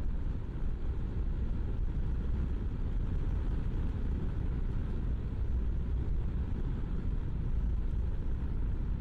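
BMW G650GS single-cylinder 'thumper' engine running steadily while the bike cruises along, heard as a steady low rumble mixed with wind on the microphone.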